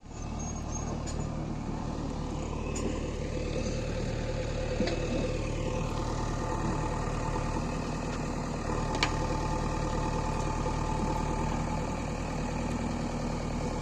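Heavy-machinery diesel engine idling steadily, with a couple of faint clicks.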